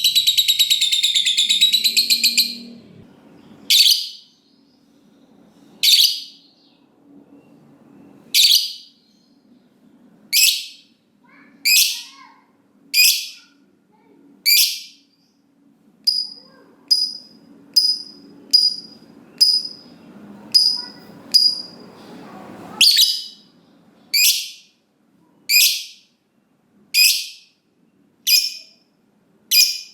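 Lovebird calling: the end of a long, rapid chattering trill (ngekek) for about two and a half seconds, then single short shrill calls repeated every second or two, coming faster, about one a second, in the second half.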